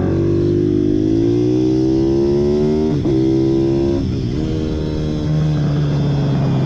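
Pit bike engine revving, rising in pitch for about three seconds with a brief break as it shifts gear, then dropping and running steadily.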